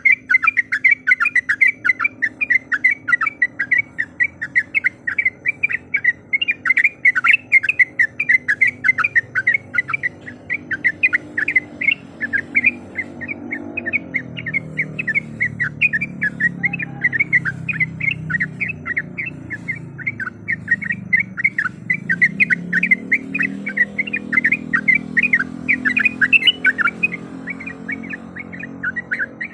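Yellow-vented bulbul calling in a fast, unbroken run of short, sharp, whistled notes, several a second.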